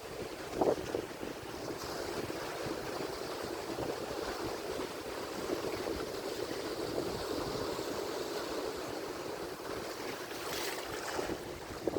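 Ocean surf: a steady rushing wash of breaking waves. There is a brief louder splash about half a second in and a hissing surge of foam near the end.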